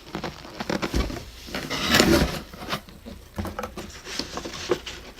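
A doll's cardboard box being opened and its contents handled: irregular rustling and scraping with small knocks, loudest about two seconds in.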